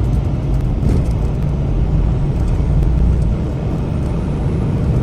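Semi truck running down the highway: a steady, continuous drone of engine and road noise.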